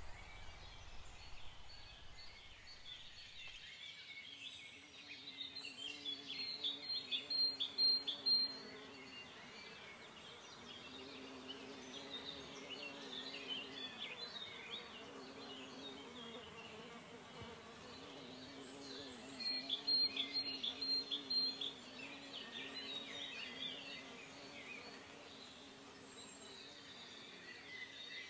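Bird-song ambience: assorted birds chirping, with a rapid run of short, even high notes twice, over a low wavering hum.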